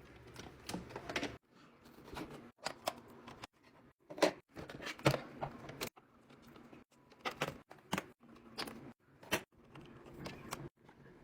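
Handling noises: irregular clicks, knocks and rustling as objects are picked up and set down, in short stretches that cut off abruptly several times.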